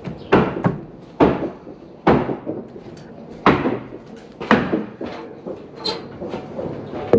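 A series of sharp knocks on wood, irregularly spaced about a second apart, as deck lumber is knocked apart during demolition.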